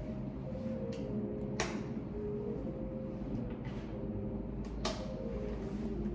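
A few sharp keyboard key clicks over a steady low office hum. The two loudest clicks come about a second and a half in and again about five seconds in.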